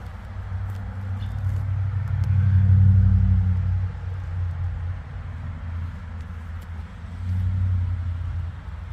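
1977 Pontiac Grand Prix's 350 cubic-inch V8 running with a low exhaust note. It swells in loudness twice: strongest from about two to three and a half seconds in, and again near the end.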